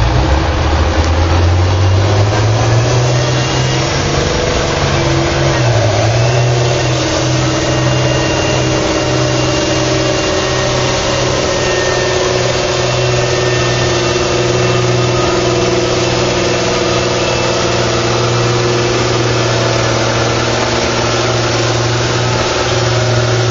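Farm tractor's diesel engine running hard under load, pulling the sled in a stock farm tractor pull. Its pitch climbs over the first couple of seconds, sags briefly about six seconds in, then holds steady.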